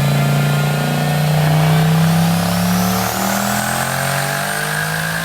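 Twin-turbo LSX 427 V8 pulling at full throttle on a chassis dyno, its engine note held high and steady while a high whine climbs in pitch over the first few seconds and then holds.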